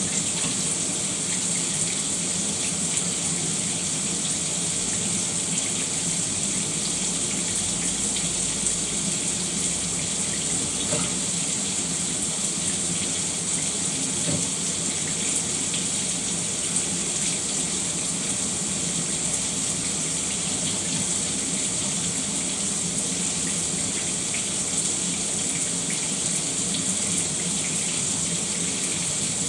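Shower running steadily: an even hiss of water spraying and splashing.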